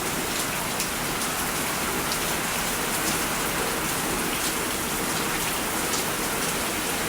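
Heavy thunderstorm rain pouring down: a steady, dense hiss with scattered sharper drop ticks. Under it runs a steady roar that sounds like a jet, which she guesses is rain hitting something out of sight.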